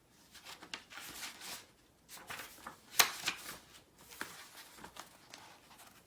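Irregular rustling and handling noise, with one sharp click about three seconds in.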